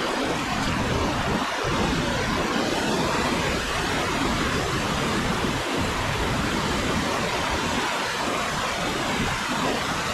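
Steady rush of whitewater on a river.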